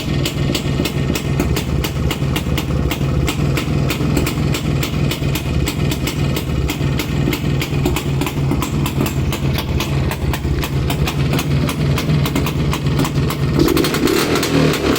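Rajdoot 175's single-cylinder two-stroke engine idling with an even, rapid beat. About thirteen and a half seconds in it is revved up.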